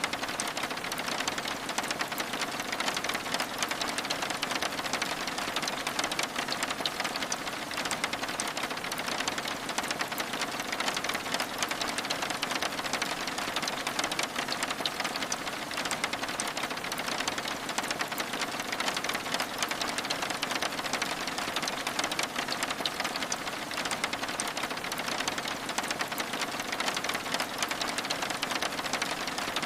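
Steady rain on window glass: an even, unbroken patter of many fine drop ticks.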